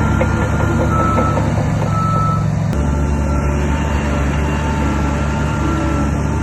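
Heavy earthmoving machinery's diesel engine running steadily under load, its note shifting about three seconds in, with thin high tones coming and going above it.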